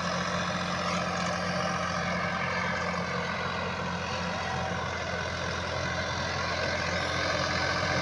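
Tractor engine running steadily while plowing dry land.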